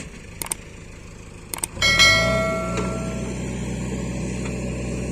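A few light clicks, then about two seconds in a sharp metallic clang that rings for about a second as a Sonalika DI-50 tractor's diesel engine picks up. The engine then runs steadily.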